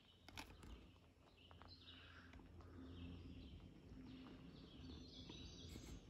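Faint songbird chirps and warbles over low outdoor background noise, with a couple of soft footsteps on a dirt path near the start.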